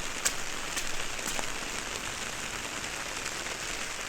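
Steady rain falling on and around an open umbrella, heard through binaural in-ear microphones, with a few louder drops ticking in the first second and a half.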